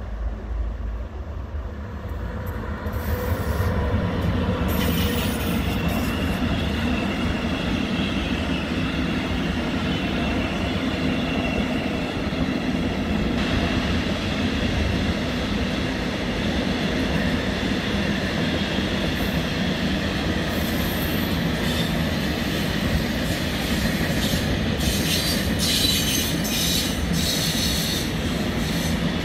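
Freight train of flat wagons loaded with rails passing, its wheels rolling over the track with a steady rumble and clatter. High-pitched wheel squeal sets in about five seconds in.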